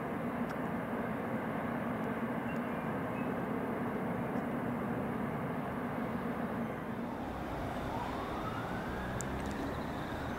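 Diesel train running, with a steady low engine hum over rail noise. About seven seconds in the low rumble grows and a whine rises in pitch, then levels off near the end.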